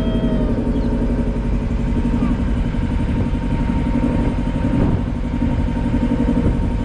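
Motorboat engine running steadily as the boat cruises along the creek.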